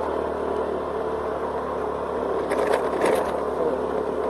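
Honda Scoopy scooter's engine running steadily at road speed, with wind and road noise. A short cluster of sharp rattling knocks comes about two and a half to three seconds in.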